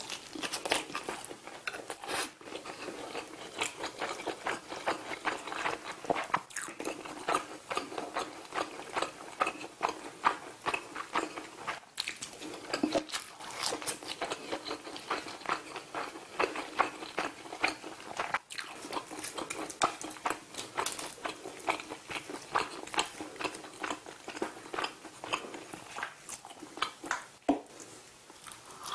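Close-miked eating sounds: biting and chewing grilled Pacific saury, a dense run of small wet mouth clicks and smacks.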